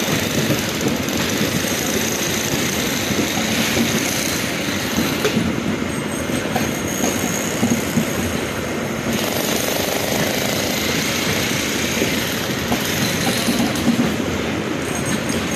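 Passenger coaches of an express train rolling steadily past: a continuous rumble of steel wheels on the rails with rattling clatter from the running gear.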